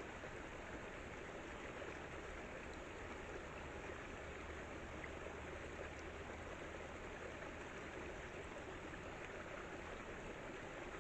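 Steady, even rushing of running water, unbroken and without distinct events.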